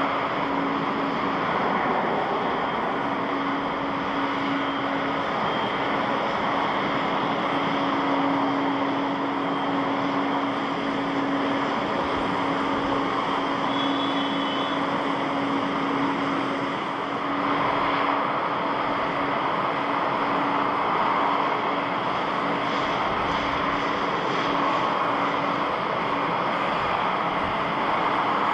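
Jet airliner engines running: a steady rushing noise with a constant tone. There is a brief dip about seventeen seconds in.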